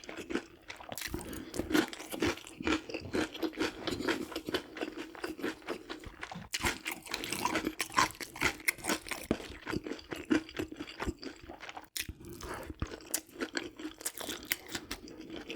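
Close-up chewing of crispy fried chicken: dense, irregular crunches many times a second as the batter is bitten and chewed.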